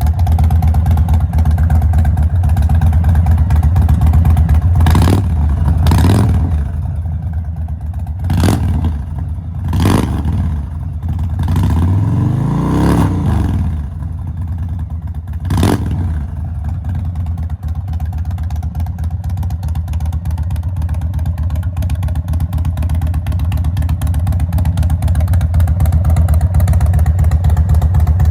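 Indian Chief Dark Horse's 116 cubic inch (1900 cc) V-twin running through an aftermarket Freedom exhaust: a steady low idle, with several sharp throttle blips in the middle and one longer rev that rises and falls before it settles back to idle.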